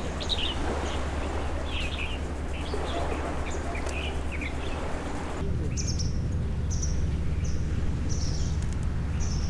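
Wild birds chirping and calling over a steady low rumble. About five seconds in the sound cuts to a different spot, where one bird repeats a short high chirp in an even series, about three every two seconds.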